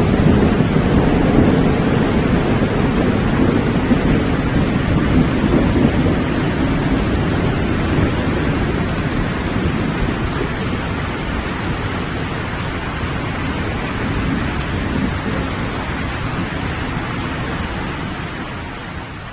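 Steady rain falling with a long, low rumble of thunder that slowly dies away; the whole sound fades down near the end.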